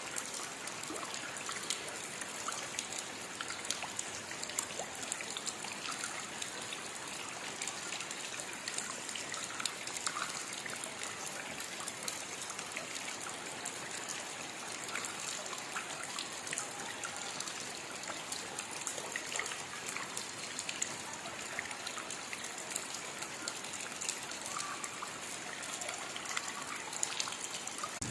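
Steady rainfall: an even hiss dotted with many small droplet ticks, with a trickling, dribbling quality.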